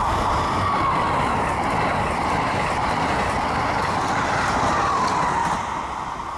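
Amtrak Acela Express high-speed trainset passing close at speed: a loud, steady rush of wheels on rail with a whining tone that wavers in pitch. It fades near the end as the rear power car pulls away.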